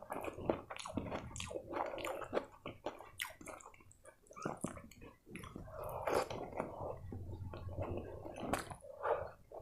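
Close-miked ASMR eating sounds of rice and chicken curry eaten by hand: wet chewing and many irregular lip smacks, with the soft squish of fingers mixing rice on a steel plate.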